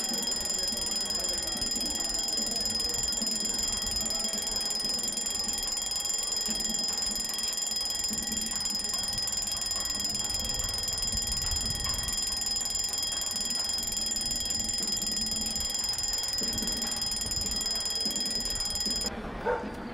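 Twin-bell alarm clock ringing steadily, cutting off abruptly near the end.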